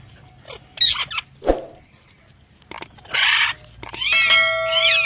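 Parrot calls: two or three short harsh screeches in the first second and a half, a longer harsh squawk about three seconds in, then a run of whistled calls that rise and fall in pitch near the end.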